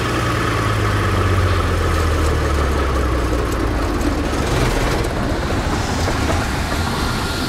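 Onan DYH 250 kW diesel generator set, its 325 hp Allis-Chalmers diesel engine running at a steady speed with a deep, even drone.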